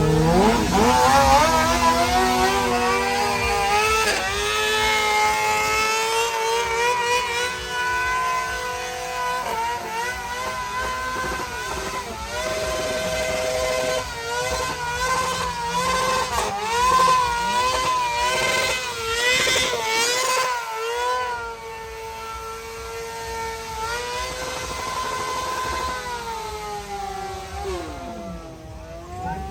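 Motorcycle engines revving and accelerating. The pitch climbs at the start, rises and falls repeatedly in the middle, then holds steadier and drops away near the end.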